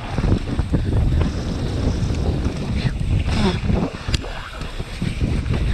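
Wind buffeting the microphone of a mountain bike rider at speed on a bike-park trail, with scattered knocks and rattles from the bike over rough ground.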